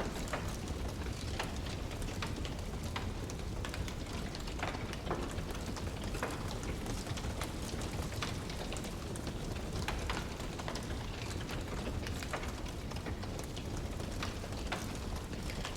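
Wood fire burning in a fireplace: a steady low rumble and hiss of flames with irregular sharp crackles and pops from the burning logs.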